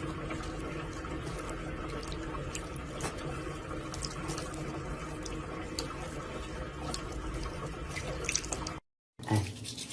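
Steady running water, like a tap running into a sink, with a few small clicks and drips. It cuts off abruptly near the end.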